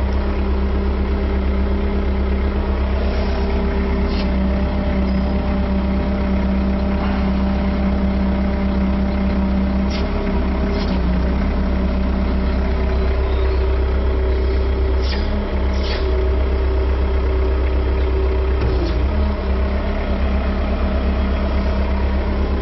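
JCB 515-40 compact telehandler's diesel engine running steadily, its pitch shifting slightly at about 13 seconds and again near 19 seconds, with a few faint clicks.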